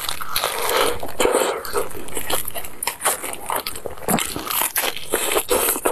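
Biting and chewing crispy fried chicken: a dense run of crunches and crackles from the fried coating.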